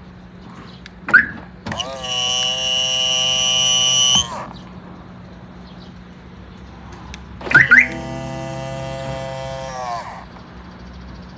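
BMW F34 power-folding passenger door mirror motor running twice, each run about two and a half seconds and starting with a click, with a steady high-pitched whine over the motor hum. This is the abnormal metallic noise from the passenger mirror.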